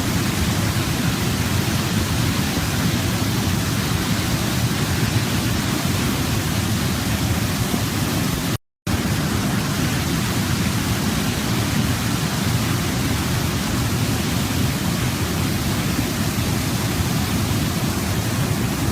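Waterfall rushing in a steady, even roar of falling water, heavy in the low end. The sound cuts out completely for a split second about halfway through.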